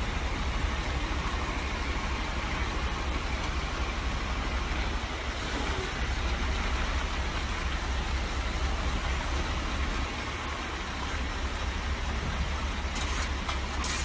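Steady rumble and hiss of a motor vehicle running, dipping slightly about ten seconds in, with a couple of brief clicks near the end.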